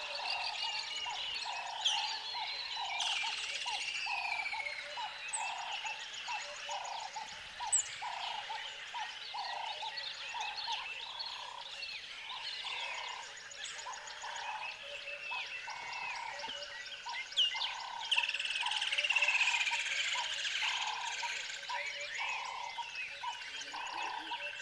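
Nature ambience: a frog croaking in a steady rhythm, a little more than one croak a second, under many birds chirping and trilling.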